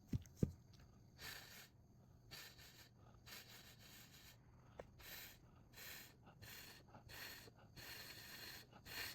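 Near silence: two soft knocks right at the start, then a run of faint breathy hisses, about one a second.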